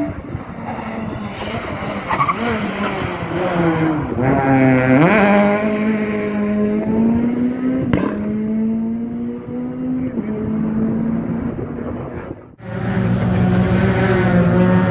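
Rally car engine running hard on the track, its pitch sinking and then jumping up sharply about four seconds in as it revs, with further shifts in pitch at gear changes. About twelve seconds in the sound breaks off abruptly and another engine at high revs takes over.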